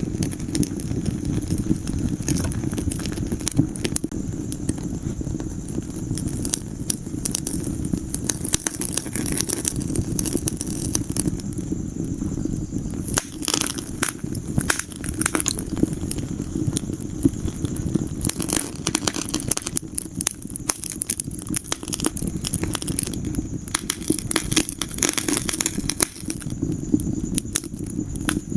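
Wood fire burning in a fireplace: a steady low rumble of the flames with frequent sharp crackles and pops from the burning logs, busiest in clusters now and then.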